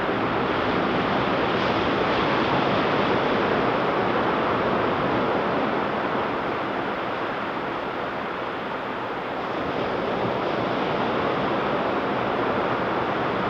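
Ocean surf breaking and washing onto a sandy beach: a steady rushing wash that eases a little about two thirds of the way through, then builds again.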